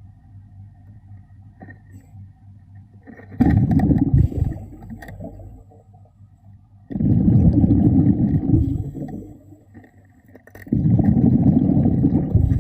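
A diver's exhaled air bubbling out underwater, three breaths about three and a half seconds apart, each a loud gurgling rush lasting under two seconds. A low steady rumble runs underneath.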